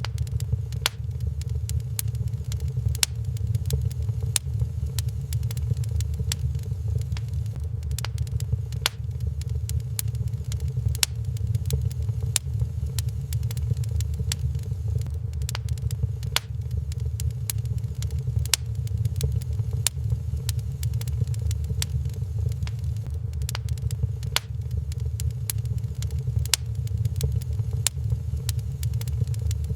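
Wood fire in a fireplace crackling, with sharp irregular pops about once or twice a second over a steady low rumble.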